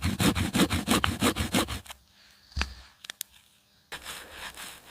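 Wooden spindle drilled against a wooden hearth board for a friction fire: fast, rhythmic wood-on-wood rubbing that stops a little under two seconds in. A couple of light knocks and faint rustling follow.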